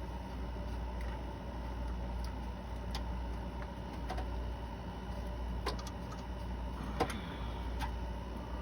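A handful of scattered light clicks and taps of rocker arms being set in place on the lifters of a rebuilt 2.7-litre head, the sharpest about seven seconds in, over a steady low hum.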